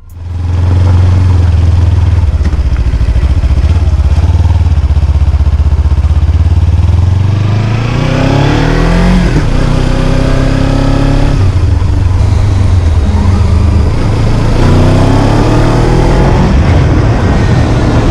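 Kawasaki Z300's parallel-twin engine running at steady low revs, then pulling up through the revs several times from about eight seconds in, the pitch climbing and dropping back between pulls.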